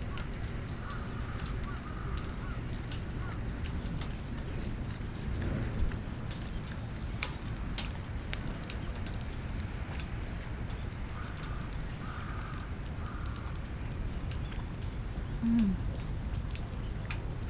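Wood campfire crackling, with scattered sharp pops over a low, steady outdoor rumble.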